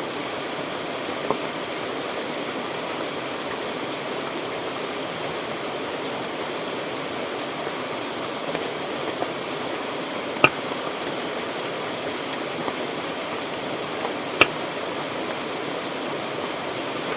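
Steady rushing of water, with three sharp clicks or knocks: a faint one about a second in, and louder ones past the middle and near the end.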